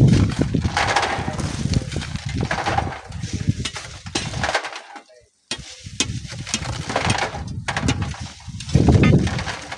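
Strong wind buffeting the microphone in gusts, a heavy low rumble with a hiss over it, dropping out briefly about halfway through.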